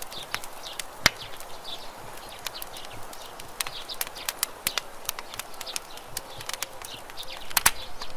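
Campfire crackling over a steady hiss, with frequent sharp irregular pops and snaps. A loud pop comes about a second in, and a cluster of loud pops comes near the end.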